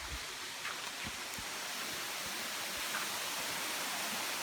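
Waterfall rushing: a steady hiss of falling water, with a few low thumps near the start.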